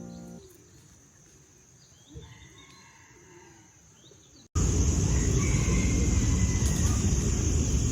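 Background music ends just after the start, leaving faint bird chirps. About four and a half seconds in, an abrupt cut brings a loud, steady outdoor rumble and hiss with a thin high whine over it.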